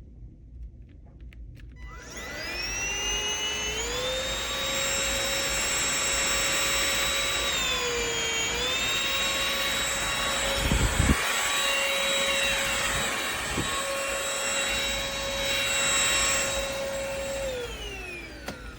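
Cordless stick vacuum's motor switched on about two seconds in, its whine rising to a steady high pitch, dipping briefly in the middle as it takes load, with a couple of knocks from the head. It is switched off near the end, and the whine winds down.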